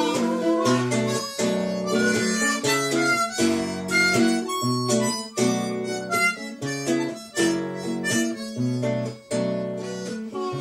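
Harmonica playing the melody over acoustic guitar accompaniment, an instrumental passage of a slow folk-style song.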